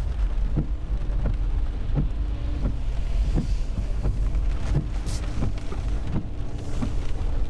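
Inside a moving car: steady low engine and road rumble, with a regular short tick about every two-thirds of a second.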